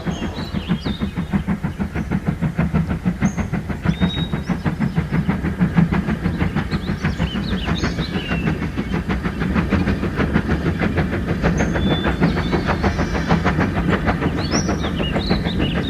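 Railway locomotive running with a fast, even beat, growing slowly louder, with short high squeals now and then.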